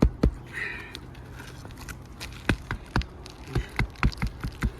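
Hammer striking to nail an asphalt roof shingle back in place: two blows, a pause, then a quick run of about ten blows.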